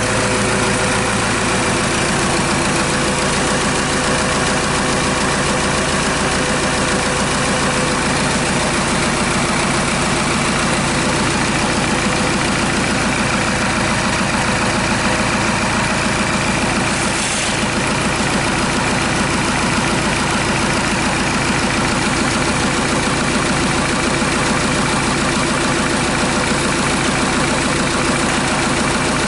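Diesel engine idling steadily on a test run outside the vehicle. About two thirds of the way through there is a brief hiss.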